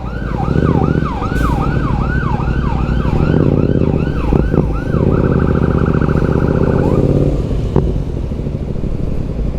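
Emergency vehicle siren going by in yelp mode, fast falling wails about two and a half a second, switching about five seconds in to a rapid warble that cuts off about two seconds later. A steady low engine rumble runs underneath.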